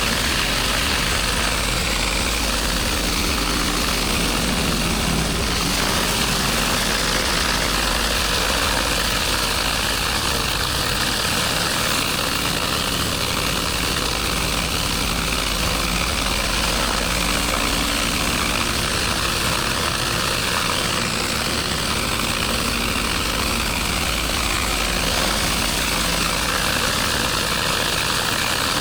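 A motor running steadily and evenly, with no change in speed.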